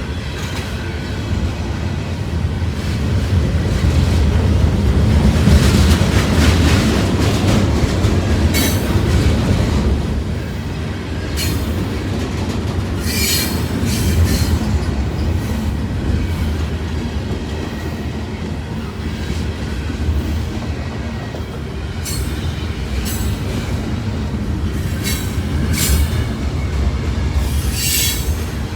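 Norfolk Southern freight train rolling past with a steady heavy rumble of cars on the rails, swelling about a quarter of the way in. Short high-pitched wheel squeals cut in again and again, most often in the later part.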